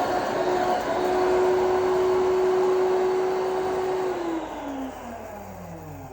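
Industrial high-speed grinder running at full speed while grinding dry pepper: a steady high whine over dense whirring. About four seconds in it is switched off, and the whine falls in pitch as the motor spins down.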